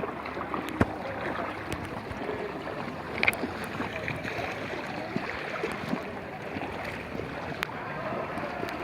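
Water splashing and lapping around a paddled canoe, with a few sharp knocks.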